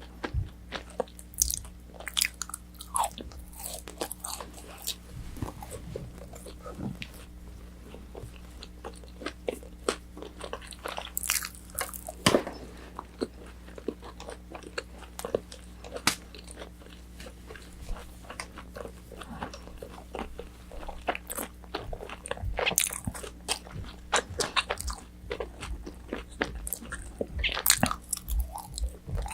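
Close-miked eating of battered orange chicken: crunchy bites and chewing, with sharp irregular crackles and mouth clicks throughout, over a faint steady low hum.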